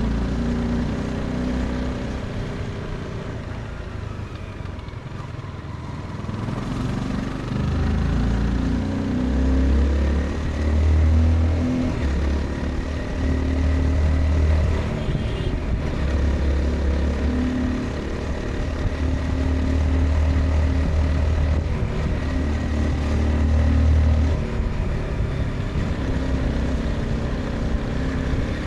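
Honda CBR 250R's single-cylinder engine running while riding, heard from the rider's position. It eases off a few seconds in, then pulls strongly again and holds a steady throttle with small rises and falls.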